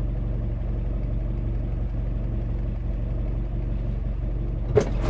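Car engine and road noise heard from inside the cabin as a steady low hum, with a sharp knock near the end.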